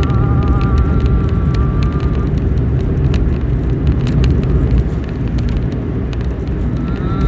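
A loud, steady low rumble with scattered faint clicks. Over it, a held, slightly wavering tone fades out about two seconds in and starts again near the end.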